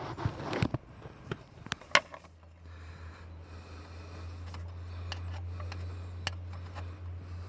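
Scraping and a few sharp clicks as a hand tool cleans old gasket gunk off an engine part's mating surface. A steady low hum starts about two seconds in and grows slowly louder.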